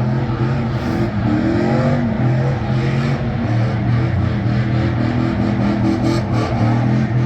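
Truck engine running hard at high, steady revs, its pitch wavering slightly.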